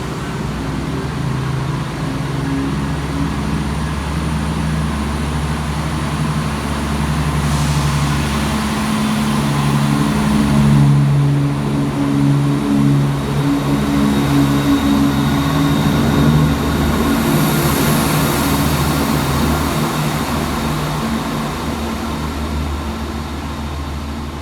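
Class 170 Turbostar diesel multiple unit pulling out, its underfloor diesel engines running under power. The engine note shifts about nine seconds in, is loudest about eleven seconds in, then slowly fades as the train moves away.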